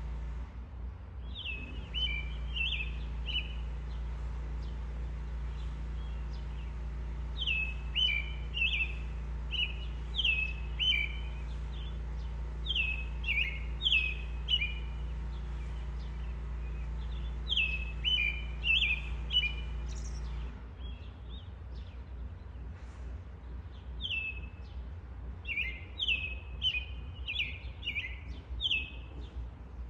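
A songbird singing repeated short phrases, each a quick run of four or five high down-slurred notes, coming every few seconds. A steady low hum lies under the song and drops away about two-thirds of the way through.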